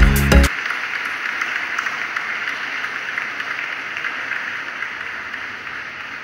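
Music cuts off about half a second in, then a crowd applauding steadily, slowly fading.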